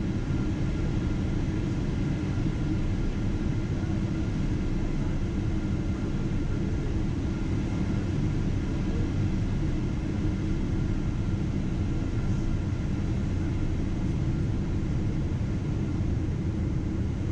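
Boeing 777-200ER cabin noise heard from inside the cabin: a steady, even low-pitched noise with a few faint steady tones above it, no changes or impacts.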